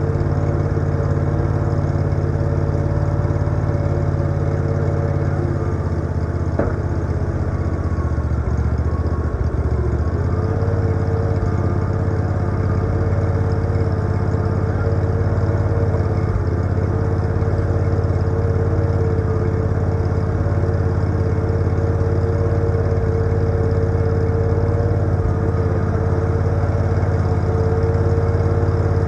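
An engine runs steadily at idle, a constant low rumble with a steady hum over it; the rumble shifts briefly about six to ten seconds in.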